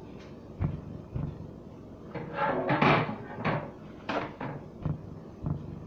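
Handling noise while cleaning: several sharp knocks and clatters, with a rough rustling stretch about two to three seconds in as a paper towel is pulled off and torn.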